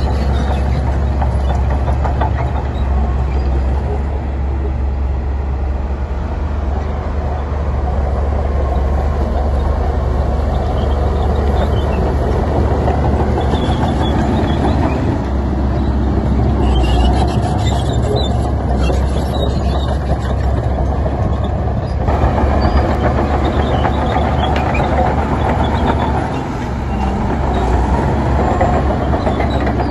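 Heavy diesel earthmoving machinery running steadily, a deep engine rumble with clattering, with an abrupt change in the mix about two-thirds of the way through.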